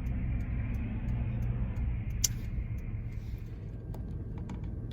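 Car cabin noise while driving: a steady low rumble, with a sharp click about two seconds in and a few faint ticks near the end.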